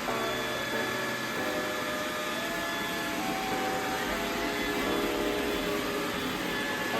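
iRobot Roomba 960 robot vacuum running at a steady level.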